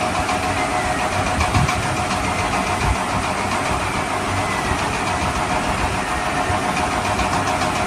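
A steady engine-like running sound, even and unbroken.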